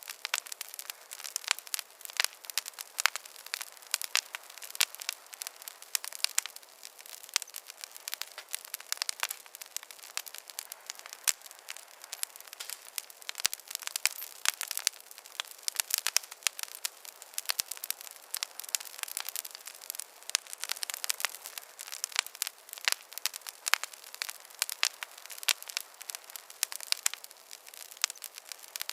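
Wood fire crackling in a fireplace: a steady run of sharp pops and snaps over a soft hiss, with no low rumble.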